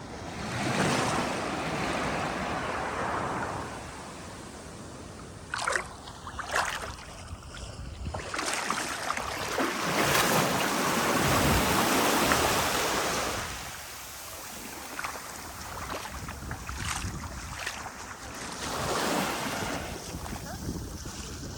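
Andaman Sea surf breaking on a sandy beach, with waves washing in as broad swells of rushing noise about every few seconds and a longer, louder surge in the middle. A few brief crackles come near the start of the quieter stretch, about six seconds in.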